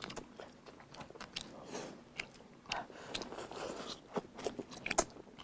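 A person chewing a mouthful of fish and rice, with soft chewing and small mouth clicks and smacks scattered throughout.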